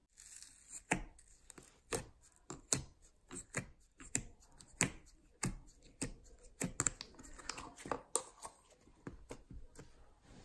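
Slime being squeezed and poked by hand, giving irregular sharp clicks and pops, about one or two a second.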